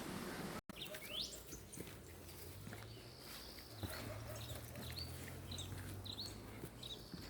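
An even hiss cuts off abruptly just after the start. Then songbirds chirp: scattered short chirps and a quick rising whistle. A low steady hum sits under them through the middle.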